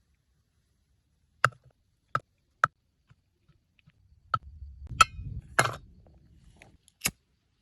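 Seven sharp knocks, irregularly spaced, with a low rumble under the middle stretch.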